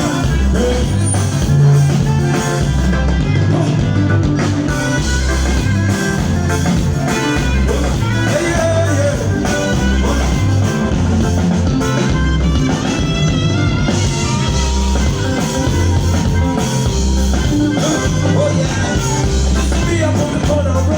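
Loud amplified band music through a sound system, a heavy bass line repeating in a steady pattern under guitar and other instruments.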